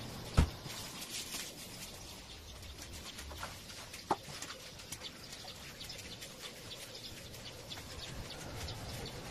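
Faint, scattered bird chirps, with a sharp knock about half a second in and a shorter click about four seconds in.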